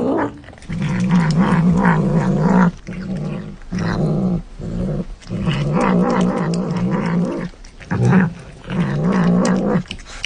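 A pet growling in long, wavering bouts broken by short pauses.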